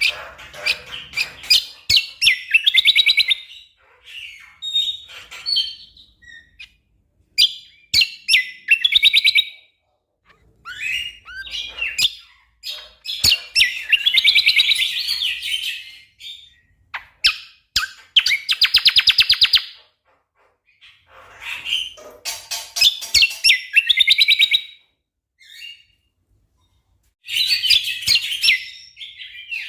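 A cucak kombo (kecial kombok) songbird singing a loud, busy song in bursts of rapid rattling trills and chirps, with short pauses between phrases.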